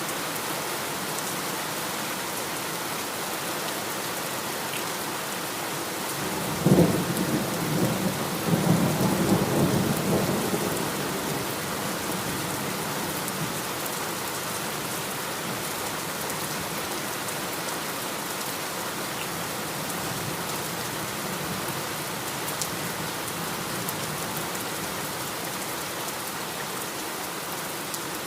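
Heavy, steady rain with a thunderclap about seven seconds in that rumbles for several seconds before fading back under the rain.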